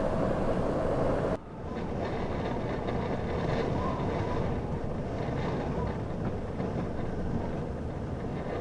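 Steady low rumble of a vehicle on the move. It is cut off abruptly about a second and a half in and continues as a slightly quieter rumble of the same kind.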